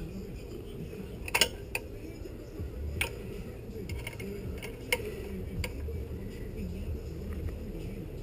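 Irregular metal clinks and clicks of a wrench working on a bolt, with the sharpest strikes about a second and a half in, at three seconds and near five seconds. A steady low hum sits underneath.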